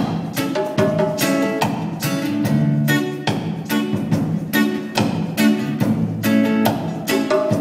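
Guitar playing an instrumental intro in a choppy strummed rhythm, with short chords about twice a second over low bass notes.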